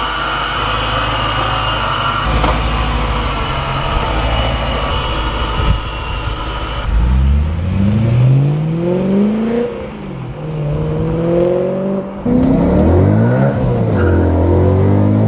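Supercharged BMW E92 M3's 4.0-litre V8 through an Akrapovic exhaust. It runs steadily for the first several seconds, then revs hard, its pitch climbing and dropping again and again through gear changes and throttle blips.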